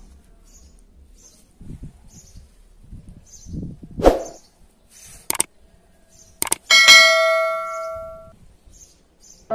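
A few short knocks, then a single metallic clang about seven seconds in that rings out for about a second and a half. Faint high chirps repeat throughout.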